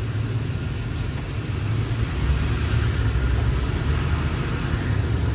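Steady low rumble of engine and tyre road noise heard from inside a moving car's cabin.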